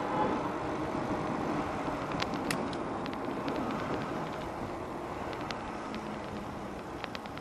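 Steady rush of street traffic heard from a moving bicycle, easing slightly, with scattered light clicks and rattles.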